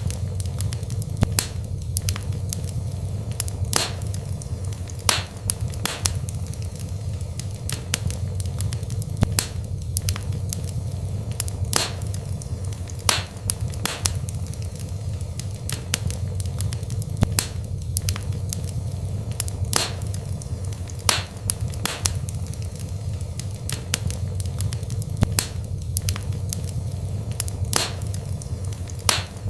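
Wood fire burning in a fireplace: sharp crackles and pops of burning wood at irregular intervals, about one every second or two, over a steady low rumble of the flames.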